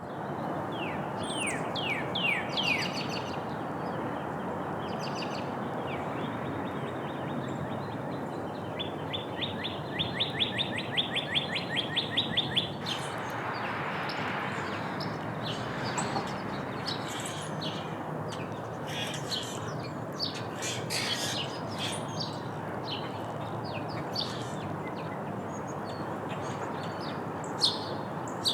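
Small songbirds chirping: a few quick down-slurred chirps near the start, a rapid trill of about seven notes a second lasting a few seconds around the middle, then many short scattered chirps, over a steady background hiss.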